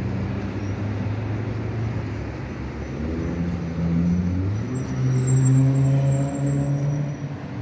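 Car engine and road noise heard from inside the cabin while driving. The engine note rises in pitch about halfway through as the car speeds up, then holds steady.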